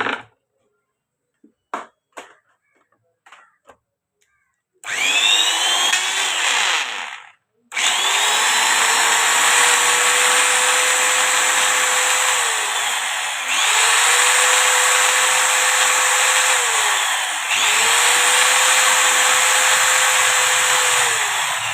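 Electric angle grinder test-run after a bearing change. A few light clicks come first. The motor then switches on and spins up with a rising whine, stops after a couple of seconds, and is restarted to run at full speed. Its pitch dips and recovers twice.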